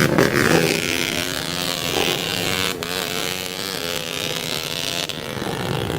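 Dirt bike engine running, its pitch rising and falling as the throttle changes, with a sharp click about halfway through.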